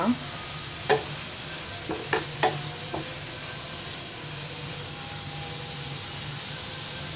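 Chopped fenugreek leaves, onions and green chillies sizzling as they sauté in a nonstick pan, stirred with a wooden spatula. The spatula gives four sharp knocks against the pan between about one and three seconds in.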